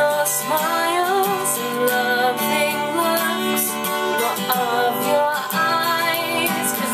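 Acoustic guitar played steadily as a woman sings a slow melody over it.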